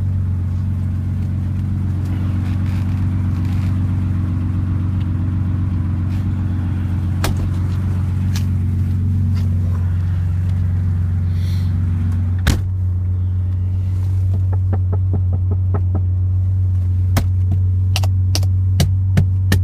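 Porsche 911's air-cooled 2.7-litre fuel-injected flat-six running at a steady idle, a deep even rumble. A sharp click sounds about two-thirds of the way through, and a run of lighter clicks follows near the end.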